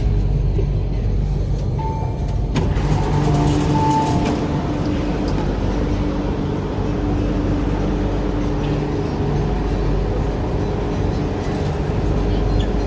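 Inside an MTR Island Line Q-Train carriage: the train's steady low hum, with a held whine from its equipment and a sharp click about two and a half seconds in.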